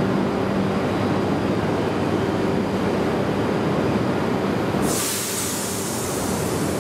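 E926 'East i' Shinkansen inspection train moving past along the platform: a steady electric hum over the rumble of the passing cars. A loud hiss sets in suddenly about five seconds in.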